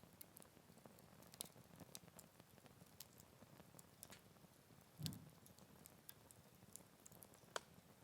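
Wood fire crackling softly, with scattered sharp pops and ticks, and a single soft low thump about five seconds in.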